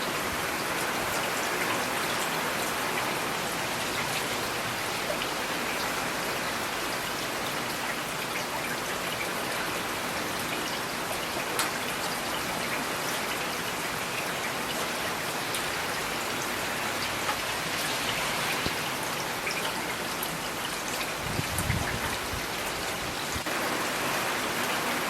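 Steady rain falling, with individual raindrops ticking on a surface.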